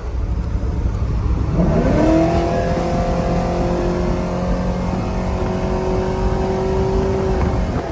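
Cammed GM truck V8 under hard throttle through its exhaust. The revs climb quickly about a second and a half in, then hold a steady high note for about five seconds before letting off near the end.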